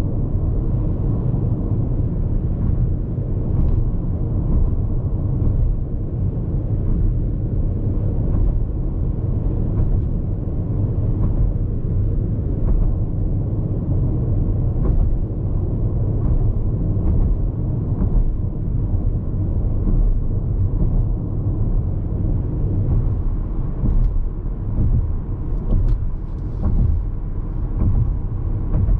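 Road noise inside the cabin of a Hyundai IONIQ 5 AWD electric car cruising on an expressway: a steady low tyre-and-road rumble with no engine note. Faint short clicks come through now and then.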